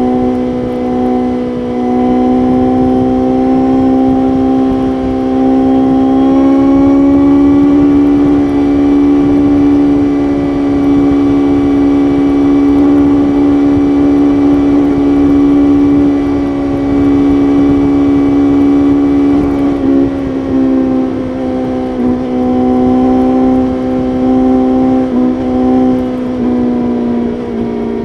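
BMW S1000RR's inline-four engine running at steady high revs under way, its pitch rising a little about six seconds in, holding, then easing back about twenty seconds in. Wind noise runs underneath.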